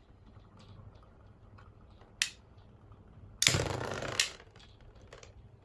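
Small hard clicks: faint scattered ticks, one sharp click about two seconds in, then a brief rattling scrape lasting about a second that ends in another click.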